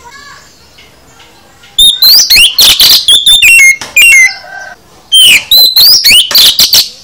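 Oriental magpie-robin (kacer) singing a varied song packed with mimicked phrases: quick whistles, rapid up-and-down sweeps and sharp clicking notes. It comes in two loud bursts, starting about two seconds in and again after a short pause near the five-second mark.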